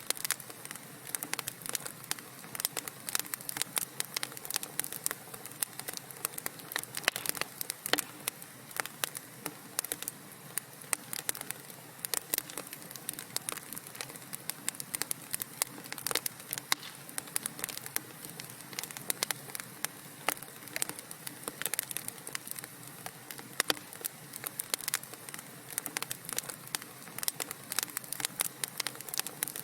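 Burning wood crackling in a fireplace: a continuous run of irregular small snaps and pops over a soft hiss.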